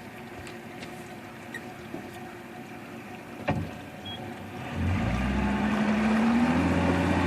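Suzuki 250 hp four-stroke outboard being started: a click, then about five seconds in the motor catches and its speed rises, settling into a steady idle.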